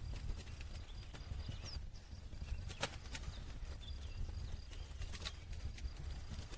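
Campfire crackling: scattered sharp pops and snaps from the burning wood over a low steady rumble.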